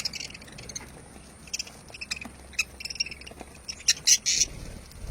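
Lovebirds giving short, sharp, high-pitched chirps and squawks at irregular intervals, the loudest few coming close together near the end.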